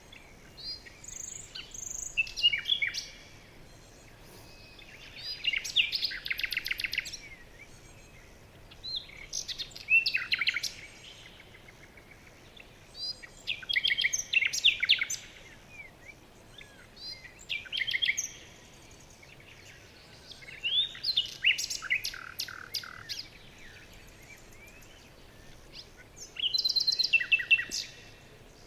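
A songbird singing short, quick trilled phrases, about one every four seconds, over a faint steady background hiss.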